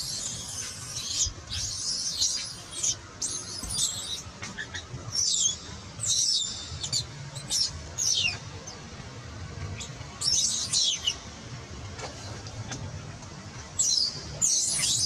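Birds chirping in quick high-pitched bursts that come in clusters every second or two, over soft background music with a low drone.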